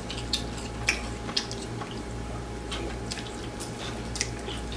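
A person chewing grilled chicken close to the microphone: scattered short wet clicks and lip smacks.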